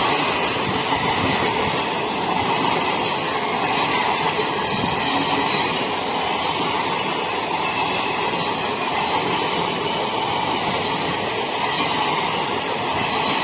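Passenger coaches of an express train passing at speed close by: a steady rushing noise of wheels running on the rails.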